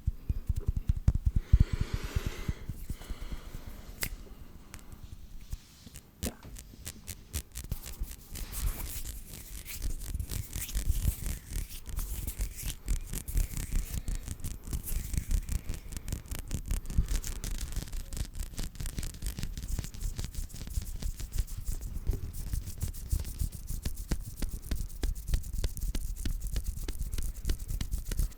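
Hands rubbing and brushing against each other fast, close to the microphone: a dense run of quick scratchy swishes that thins out for a few seconds and then picks up again.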